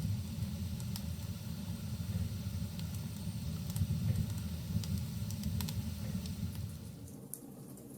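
Wood fire burning in a fireplace: a steady low rumble of flames with scattered sharp crackles and pops from the logs. The rumble drops away about seven seconds in, leaving only faint crackles.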